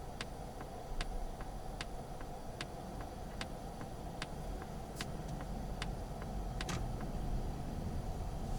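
Polestar 2's turn-signal indicator ticking steadily, about two to three clicks a second, over a low steady cabin rumble.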